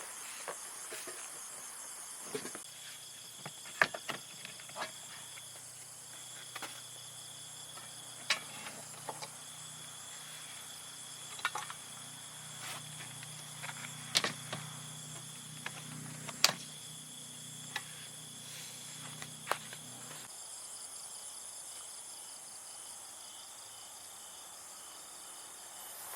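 Insects calling in a steady high-pitched chorus, with scattered sharp clicks and knocks. A low hum runs through most of it and stops near the end.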